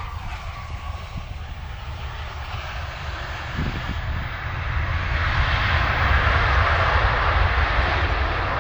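Antonov An-178's two Ivchenko turbofan engines during the landing roll, the jet rush swelling to a loud roar about five seconds in as reverse thrust is applied to slow the aircraft.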